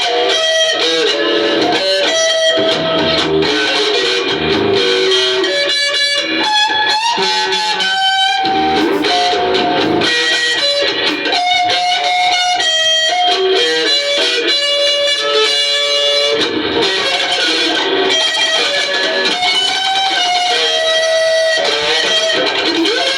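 Electric guitar playing a melodic lead line of held, bending notes over a rhythm accompaniment.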